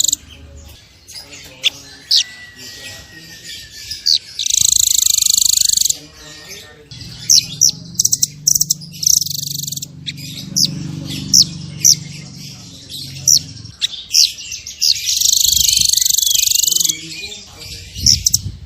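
Blue nuthatch (Sitta azurea) calling: two rapid, high trills, each about two seconds long, with sharp single high chips scattered between them. A low murmur sits underneath through the middle.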